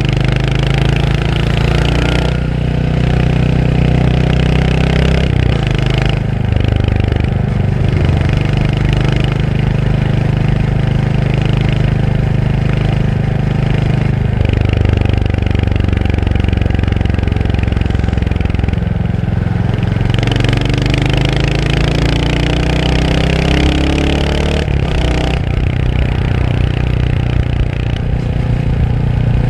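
Royal Enfield Hunter 350's single-cylinder 349 cc engine running on the move. Its pitch rises several times as it accelerates and drops back between shifts, with wind and road noise over it.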